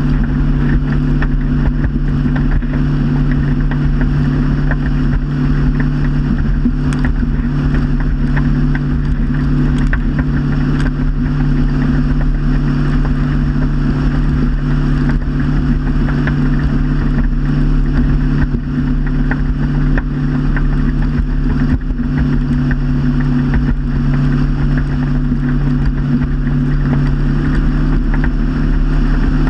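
Motorboat engine running steadily underway, a constant drone with an even wash of water noise over it.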